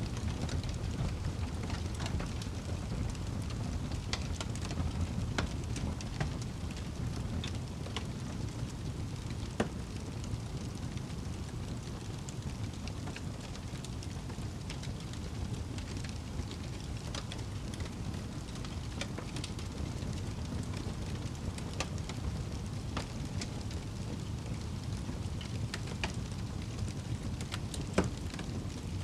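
Wood fire crackling in a fireplace: a steady low rumble of burning with scattered sharp pops and snaps, two louder pops about ten seconds in and near the end.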